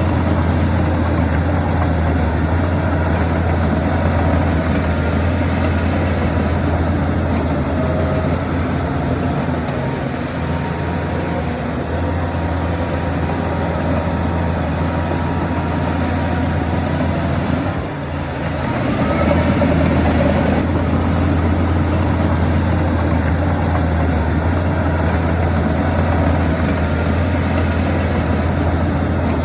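Heavy diesel engine of earthmoving machinery running steadily, with a brief drop about eighteen seconds in before it picks up again.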